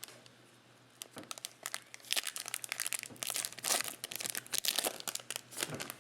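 Trading-card pack wrapper being torn open and crumpled: a dense crinkling crackle that starts about a second in and is loudest in the middle.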